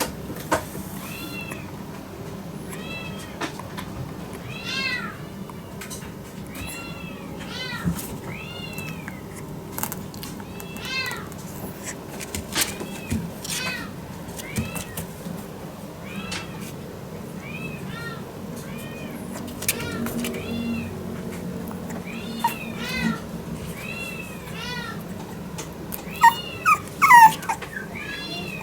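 French bulldog puppy whining over and over in short, high-pitched cries that rise and fall in pitch, with a few louder yelps near the end.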